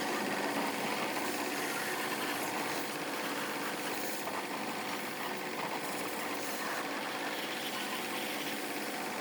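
Restored high-pressure car washer running steadily, its electric motor and pump turning without a break.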